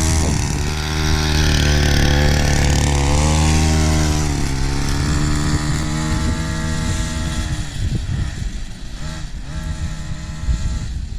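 Small 50 cc two-stroke mini bike engine revving as the bike pulls away, its pitch rising and falling with the throttle, then growing fainter from about seven seconds in as it moves off.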